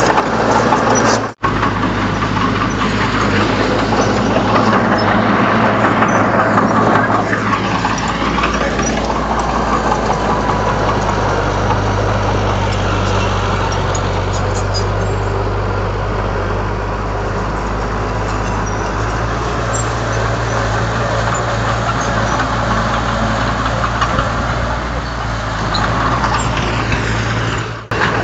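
Diesel engine of a Komatsu D31 bulldozer running steadily at working speed, with a short dip in pitch and back a few seconds in. The sound drops out briefly about a second in and again near the end.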